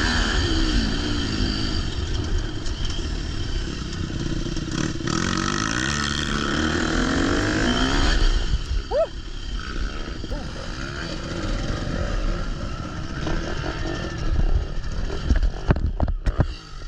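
Motocross dirt bike engine revving up and down as it is ridden, its pitch rising and falling again and again. The sound becomes more uneven about halfway through, with a few sharp knocks near the end.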